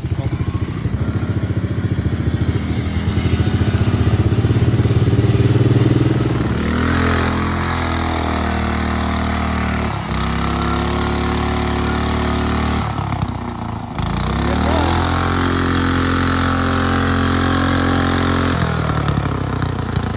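A small engine running at high throttle: loud and steady for the first six seconds, then its revs rise and fall several times.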